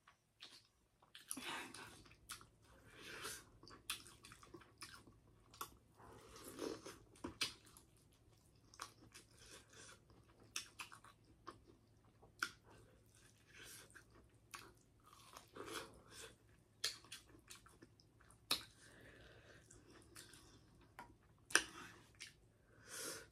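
A person chewing and biting boiled shrimp close to the microphone: irregular wet mouth smacks and short clicks, coming and going between bites.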